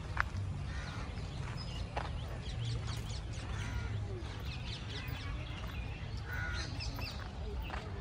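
Birds chirping and calling in short, scattered calls, over a steady low rumble.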